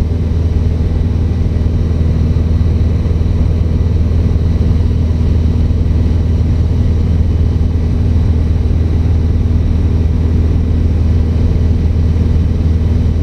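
Cessna 150's four-cylinder Continental O-200 engine and propeller running steadily in level flight, a constant low drone with no change in pitch.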